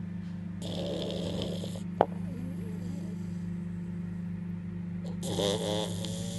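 A beagle snoring: two long, rattling snoring breaths about four seconds apart. A sharp click comes about two seconds in, over a steady low hum.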